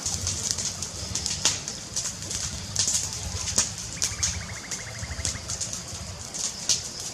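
Fire crackling, with sharp irregular pops over a steady low rumble. About four seconds in, a brief rapid ticking trill sounds for about a second and a half.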